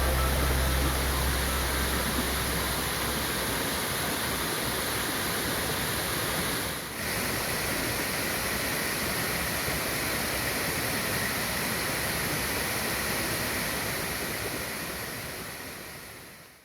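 Steady rush of river water, with a brief dip about seven seconds in, fading out near the end. Low background music dies away in the first couple of seconds.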